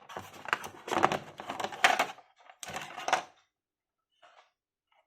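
Hard plastic clicking, tapping and rustling as a neckband Bluetooth headphone and its packaging are handled, in a few bursts that stop about three and a half seconds in.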